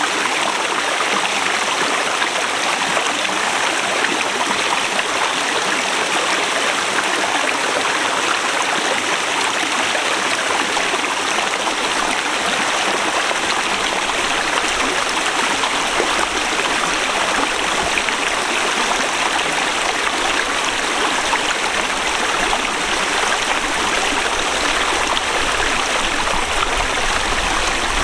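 Forest river rushing over rocks: steady, even water noise. A low rumble comes in about halfway through.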